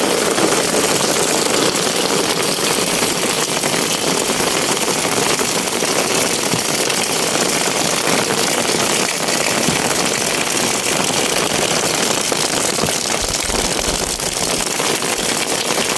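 Steady rain falling and splashing on surfaces, an even hiss that holds without a break.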